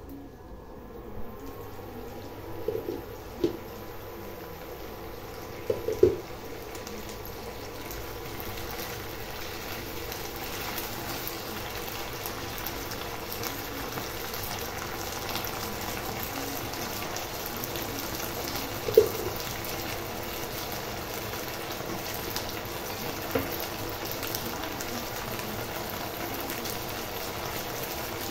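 Okra sizzling and crackling as it fries in oil in a pan, a steady hiss that grows a little louder after the lid comes off. A few sharp knocks from the pan lid and the spatula against the pan, the loudest about six and nineteen seconds in.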